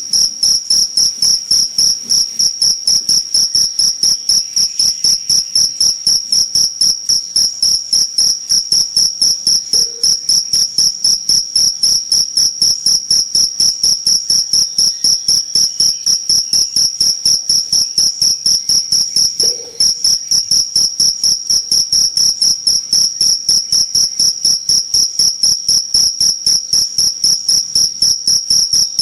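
Cricket chirping loudly and persistently: a high, pure trill in quick pulses, about four to five a second, with one brief break about two-thirds of the way through.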